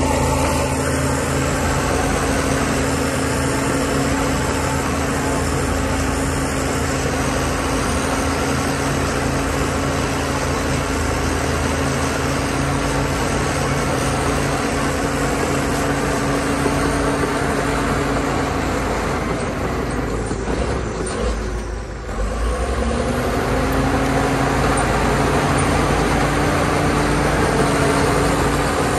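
Heavy diesel engine of earthmoving machinery running steadily under load. About twenty seconds in the sound dips briefly, then the engine pitch rises and it picks up again.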